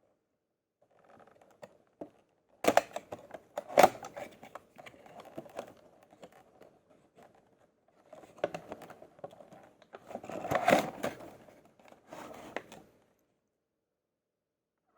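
Handling noises of a small diecast toy truck: irregular clicks, knocks and scraping, with two sharp clicks about three seconds in and a busier burst of clicking around eleven seconds in.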